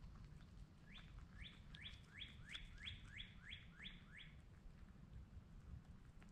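A songbird singing one phrase of about ten clear, quickly repeated downslurred whistles, roughly three a second, lasting about three seconds.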